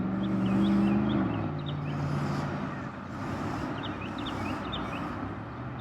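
A motor vehicle passing, its engine note dropping in pitch and fading about a second in, over a steady traffic hiss. Small birds chirp repeatedly throughout.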